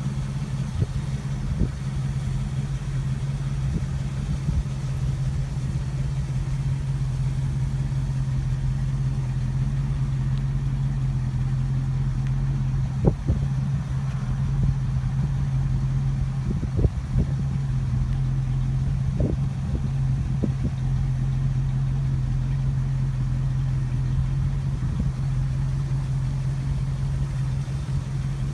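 1959 DeSoto Firedome's 383 V8 idling steadily, with a few short knocks near the middle.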